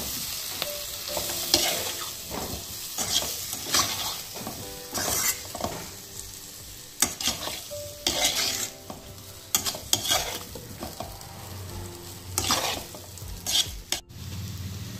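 Potato cubes and fenugreek leaves frying in oil, a steady sizzle, with a metal spoon scraping and stirring through them in the pan every second or so.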